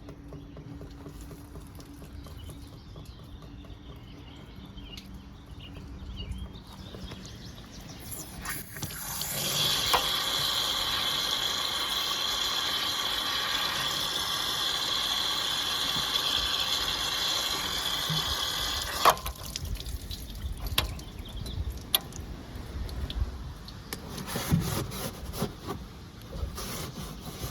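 Air and then water rushing out of a Suburban RV water heater's open pressure-relief valve as the tank refills. It starts as a faint hiss, grows loud and steady about nine seconds in, and cuts off suddenly with a click about ten seconds later. Scattered clicks and knocks follow.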